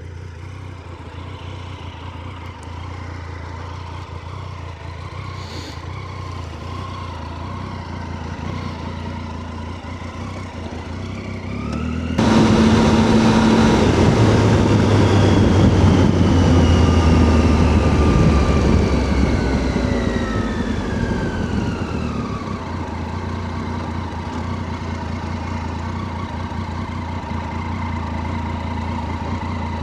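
Triumph Tiger 800's three-cylinder engine running while riding. About twelve seconds in the sound jumps suddenly louder, then its pitch falls steadily over several seconds as the bike slows, settling to a steady, quieter run.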